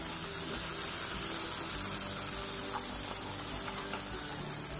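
Cashew and poppy-seed paste sizzling steadily in hot oil in a kadai as a wooden spatula stirs it, the paste being sautéed on a medium flame to cook out its raw taste.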